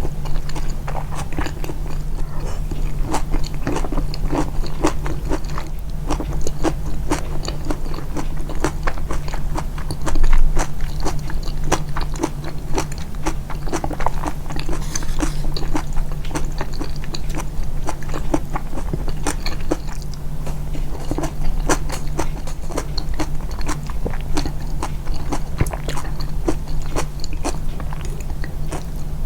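Close-miked chewing and biting: wet mouth clicks and soft crunches, irregular and continuous, with one louder moment about ten seconds in. A steady low hum runs underneath.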